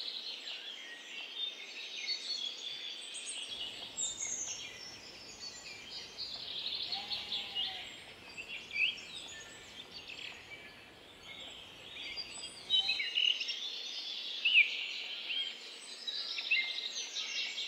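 Several songbirds singing, a busy chorus of short chirps, whistles and trills over a faint steady hiss.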